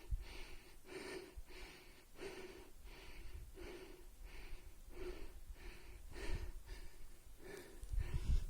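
A man's heavy, rhythmic breathing, about three breaths every two seconds: panting while climbing on a mountain peak. A low rumble comes in near the end.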